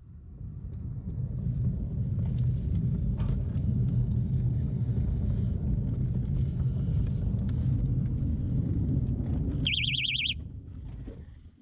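A 7¼-inch gauge miniature train rumbling along the rails, building up over the first couple of seconds. About ten seconds in, a short trilling whistle is blown as the signal to stop. The rumble then dies away as the train halts.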